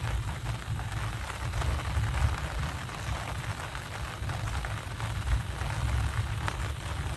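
Rain falling steadily, with a fine patter over a constant low rumble.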